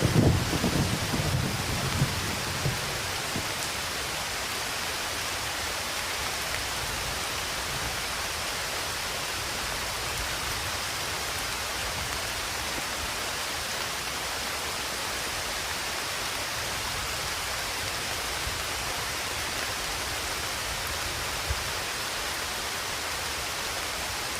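Steady rain falling, an even hiss; the tail of a thunder rumble fades out over the first few seconds.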